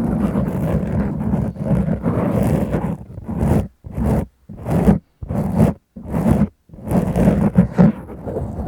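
Close scratching on a foam windscreen fitted over a microphone. The scratching is continuous at first, then comes as about five separate strokes with short gaps in the middle, then runs continuous again.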